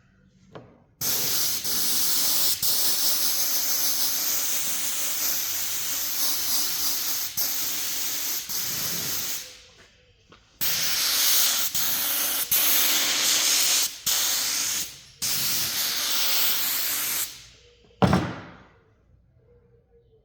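Compressed air hissing from an air tool in long bursts: the first lasts about eight seconds, then come several shorter ones, each trailing off as it stops. A single sharp bang comes near the end.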